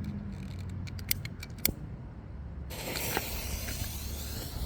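A few sharp clicks, then about two and a half seconds in a visco fuse catches and starts a steady hiss as it burns toward a rack of 62 mm firework shells.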